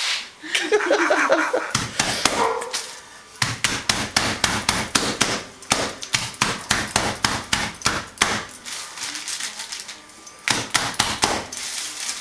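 Chicken being pounded flat inside a plastic bag on a kitchen counter: a fast run of sharp thuds, about three or four a second, that breaks off about eight and a half seconds in and picks up again briefly near the end.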